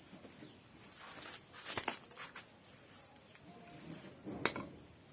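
Steel wire cable being handled and bent by hand: a few light clicks and taps, a small cluster about a second and a half in and a sharper one near the end, over a faint steady high hiss.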